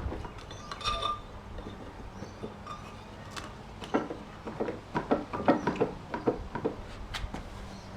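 Metal tools and parts clinking, tapping and knocking as the shredder is worked on by hand: a few scattered clicks, then a busy run of knocks and scrapes through the middle and one sharp click near the end.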